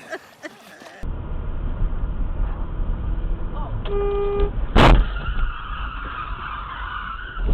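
Over the low rumble of a moving vehicle, a car horn sounds once for about half a second. Right after it comes a loud bang, typical of a collision. A few seconds of hissing, scraping noise follow.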